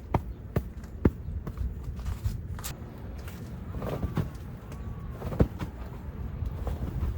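Scattered light knocks and clicks at irregular times over a low rumble, with a faint short whistle-like tone about four seconds in.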